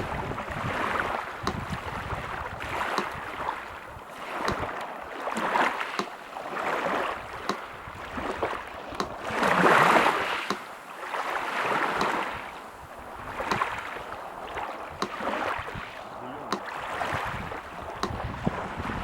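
Sea surf washing in and out in repeated swells, one louder wave about halfway through. Over it a metronome ticks steadily, about once every second and a half.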